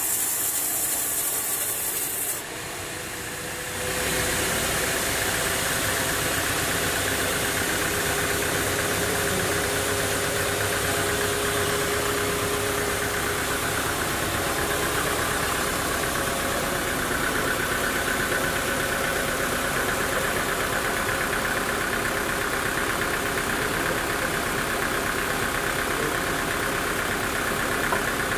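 An engine running steadily, such as a sawmill's drive motor, starting about four seconds in after a high hiss that cuts off abruptly and a short quieter gap.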